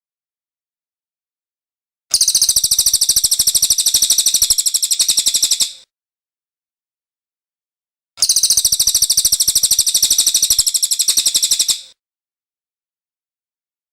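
Cililin songbird singing two bursts of rapid, evenly repeated high-pitched notes, each about three and a half seconds long, with complete silence between them.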